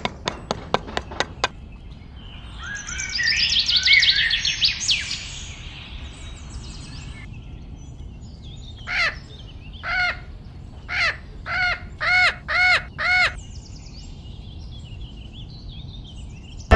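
Birds calling: a burst of quick twittering chirps, then a crow cawing about seven times in quick succession. A few sharp clicks come right at the start.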